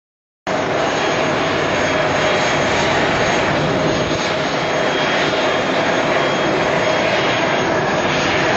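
Jet engine running steadily nearby: a constant rushing noise with a faint high whine. It cuts in abruptly about half a second in.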